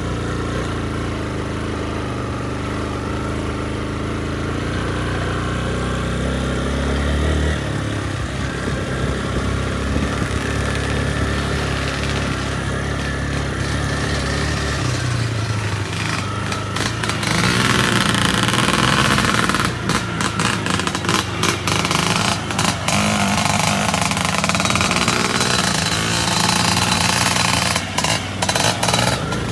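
Motorcycle engine running, its pitch shifting up and down; from about halfway through it gets louder and higher, with many brief dips in level.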